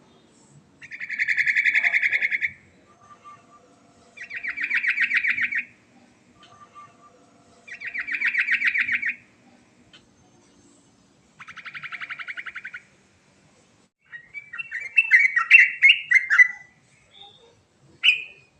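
Yellow-vented bulbul (trucuk) singing: four separate rapid buzzing trills of about a second and a half each, evenly spaced, followed near the end by a quicker, more varied run of chattering notes.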